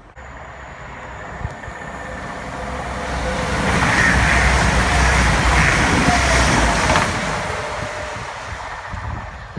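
East Midlands Trains Class 222 Meridian diesel multiple unit passing at speed close by: the rumble and rail noise build to a peak mid-way, then fall away near the end.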